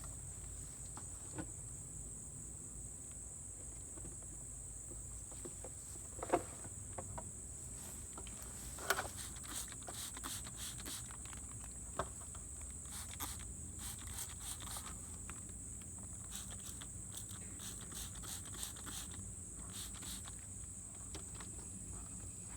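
Steady high-pitched insect chorus, with a few brief knocks and scattered light ticks of handling.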